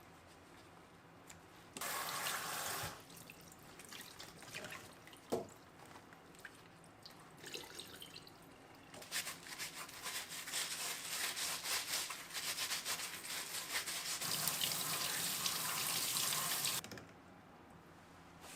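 Kitchen tap running into a sink: a short run about two seconds in, then a longer run of about eight seconds from about halfway, with knocks and clinks in between.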